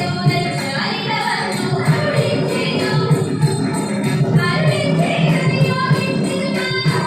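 Ottan Thullal music: a voice chanting the verses in a sung melody, over a steady beat of drum strokes and jingling small hand cymbals.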